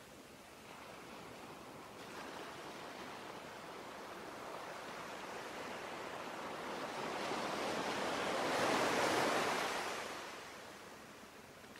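Sea waves washing in: a steady surf hiss that slowly swells into one larger wave, loudest about nine seconds in, then draws back.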